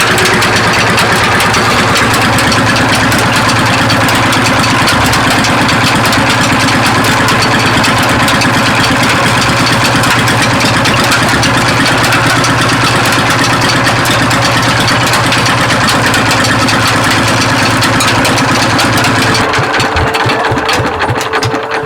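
Single-cylinder Petter diesel engine running steadily, driving a sugarcane crusher; it slows and fades away near the end.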